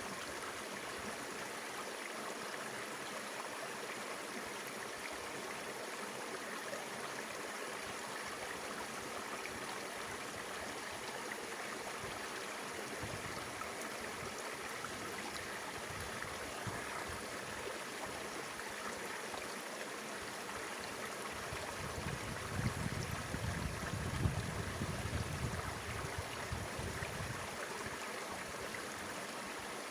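Mountain river water flowing steadily. A low rumble rises for a few seconds about two-thirds of the way through.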